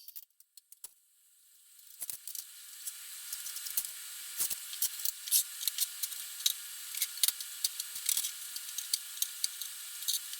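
Electric welding arc hissing steadily with irregular crackles, building up about a second and a half in.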